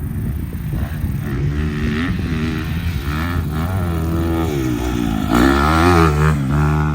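Dirt bike engine on a motocross track, revving up and down repeatedly, its pitch rising and falling with the throttle. It is loudest about five and a half seconds in.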